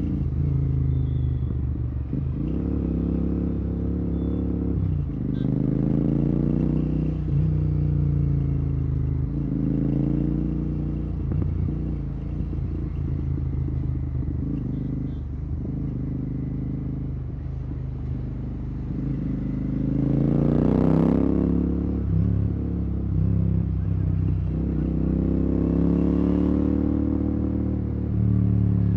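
Royal Enfield Continental GT 650's parallel-twin engine running through a Red Rooster exhaust with the dB killer removed. It repeatedly accelerates and eases off in traffic, the pitch climbing in several pulls, the strongest about twenty seconds in.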